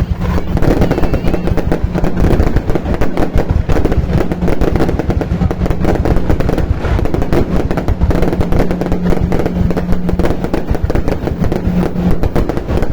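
New Year fireworks going off in a dense, continuous barrage of rapid bangs and crackles, over a steady low hum.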